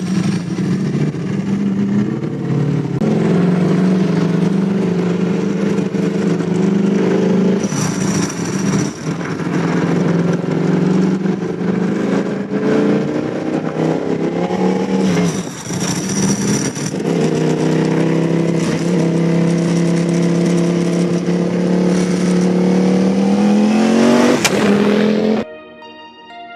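Ducati Panigale V4 superbike's V4 engine running hard through an Akrapovic exhaust, its pitch holding fairly steady with a few sudden drops and dips as it changes gear. Near the end the revs climb steeply, then the sound cuts off suddenly.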